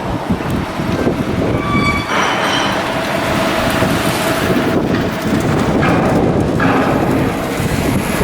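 Continuous loud shipyard machinery noise, with a high metallic squeal about two seconds in.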